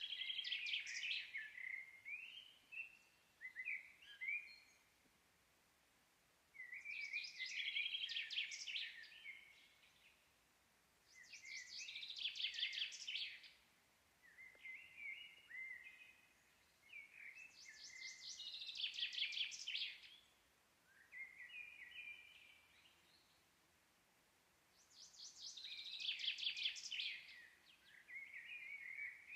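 A songbird singing the same song about five times, roughly every six seconds. Each song is a rapid, high trill followed by a few lower sliding notes, over faint outdoor background hiss.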